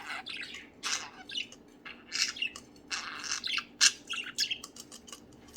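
A flock of budgies chirping and chattering: many short, high-pitched calls and squawks overlapping, one sharp call standing out near the four-second mark.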